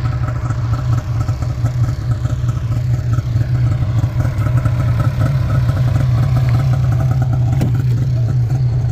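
A vehicle engine running steadily at an even pitch: a loud, low drone with no revving.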